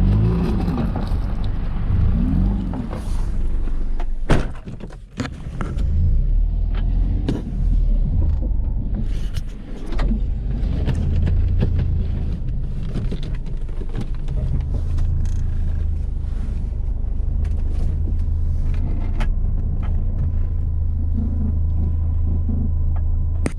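Mazda RX-8's 13B rotary engine running steadily, with a few sharp knocks in the first several seconds.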